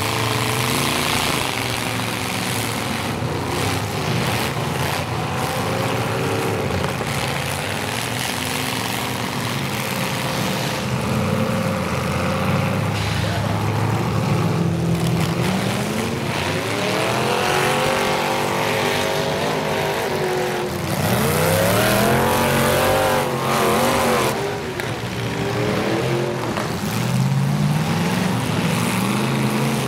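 Several demolition derby cars' engines running and revving hard, rising and falling in pitch again and again, the loudest revs a little past the middle.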